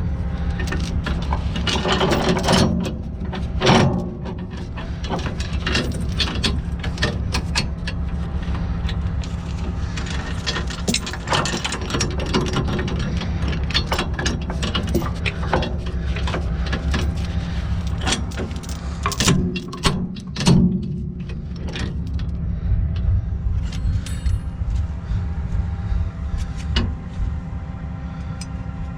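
Heavy diesel truck engine running steadily, with frequent sharp metallic clicks and clanks over it.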